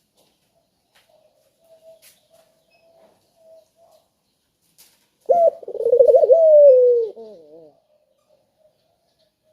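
A dove cooing: a few faint, low coos, then about five seconds in one loud coo lasting a little over two seconds that wavers and then slides down in pitch at its end.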